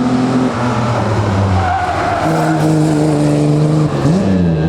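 Racing car engine running hard with its tyres squealing. The engine pitch drops briefly and rises again near the end.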